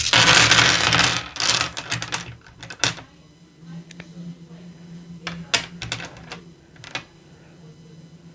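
A rustle of packaging for about the first second, then scattered sharp clicks of a handful of dice knocking together as they are handled.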